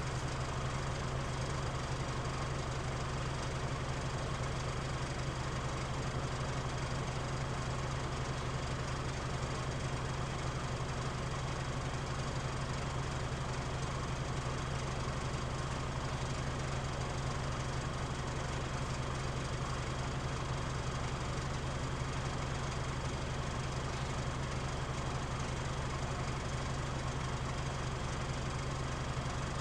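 Mitsubishi Fuso Aero Star city bus diesel engine idling with a steady low drone and the heavy idling vibration noise that this bus is known for. The pitch does not change.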